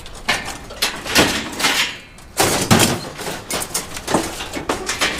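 Scrap metal being handled and dropped onto a pile: a run of irregular clanks and thuds, the loudest about a second in and again near three seconds in.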